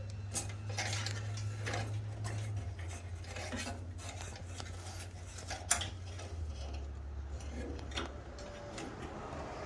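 Small metal clicks and clinks of hand tools and parts being handled during wiring work, one sharper click a little past the middle, over a steady low hum.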